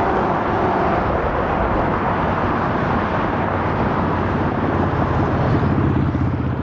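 Jet engines of a Boeing 787-9 running at low power on the ground, a steady loud rushing noise with a low hum that grows stronger near the end.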